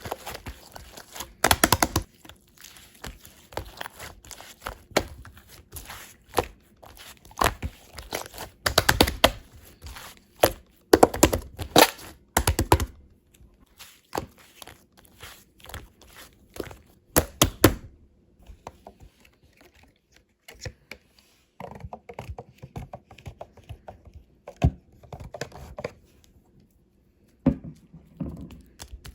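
Hands squishing, pressing and poking fondant slime, making a run of sticky clicks, crackles and soft thuds. The clicks come thick and fast in the first half and thin out after that.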